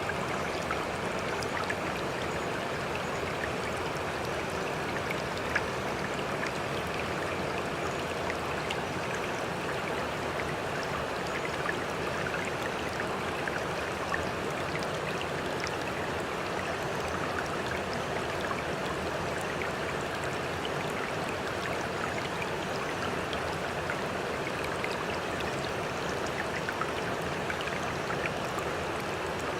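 Steady running water with small splashes and trickles throughout.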